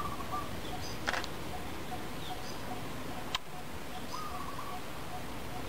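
Birds calling over a steady background hiss: a short note repeats at an even pace throughout, and a longer call comes near the start and again about four seconds in. Two sharp clicks, about one second and three and a half seconds in.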